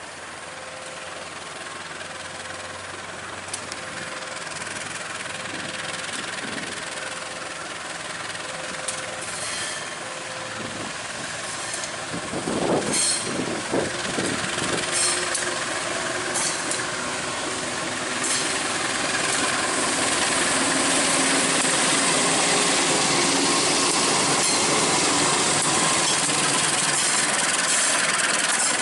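Train growing louder as it draws near and runs past, ending in a steady dense rush of wheel and engine noise over the last third. A faint tone repeats at regular intervals during the first ten seconds or so.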